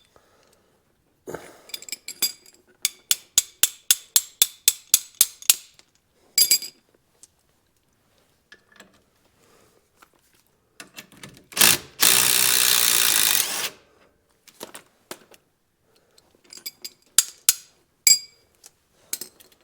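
Hand ratchet wrench clicking, about four clicks a second for some three seconds, among clinks of metal tools and parts. About twelve seconds in, a loud rushing noise lasts about two seconds, followed by a few more sharp clicks.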